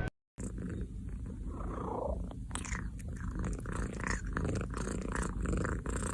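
A domestic cat purring steadily, with a few soft clicks over it.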